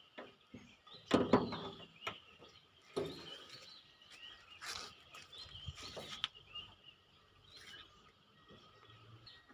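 Outdoor ambience with birds chirping faintly. About one second and three seconds in come short, louder bursts of broad noise, with smaller ones a few seconds later.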